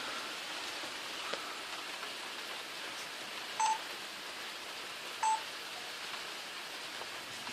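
Steady rain falling in a thunderstorm, an even hiss, with two short electronic beeps, one about three and a half seconds in and another near five seconds.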